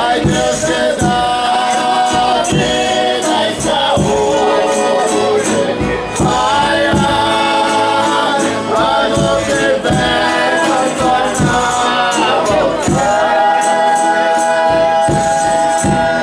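Folia de Reis group singing: voices hold long notes in harmony, sliding up into a long held note about two-thirds of the way through, over a steady beat of percussion.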